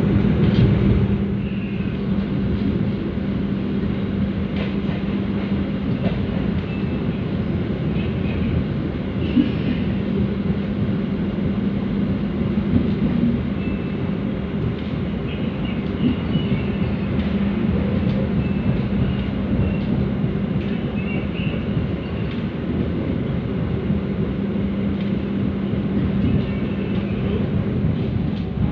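Cabin noise inside a stainless-steel executive passenger coach of a moving train: a steady rumble of the running train with a constant low hum and a few faint clicks.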